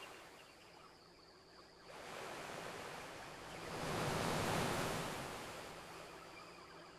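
Ocean waves washing onto a beach: one swell of surf builds about two seconds in, peaks about halfway through, then recedes.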